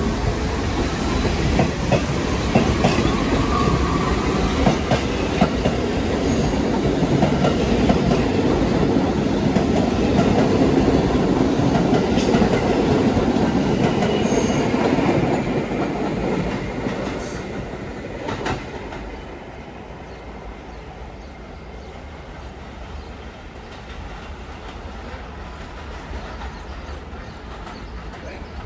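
A New York City subway train running past with its wheels clacking over the rail joints. It grows louder for about fifteen seconds, then fades away, leaving a quieter low rumble.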